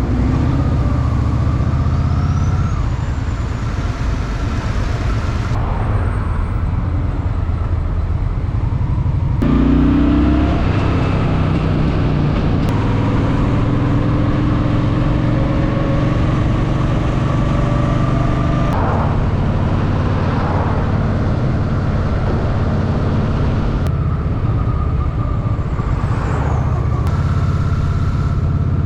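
Honda Shadow VT750's V-twin engine running under way in city traffic, with surrounding traffic noise. The engine note shifts in pitch several times as the bike changes speed.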